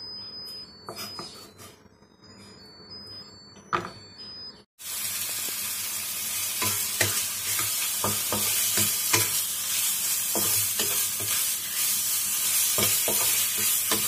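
Pork belly pieces and garlic frying in oil in a wok, sizzling loudly with a steady hiss, while a wooden spatula stirs and scrapes them with repeated clicks. The first third is quiet, with a faint background melody, a few clicks and a single knock. Then the sizzling starts suddenly.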